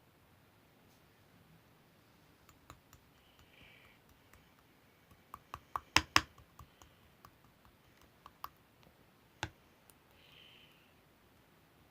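Scattered sharp clicks and taps at an irregular pace over a quiet background, with a cluster of louder ones about six seconds in and a single one a few seconds later.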